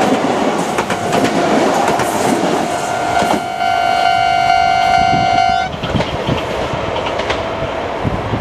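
Kintetsu Minami Osaka Line electric train passing over a level crossing, its wheels clacking over the rail joints while the crossing's warning bell keeps ringing. About three seconds in, the train sounds its horn for nearly three seconds; the horn stops abruptly.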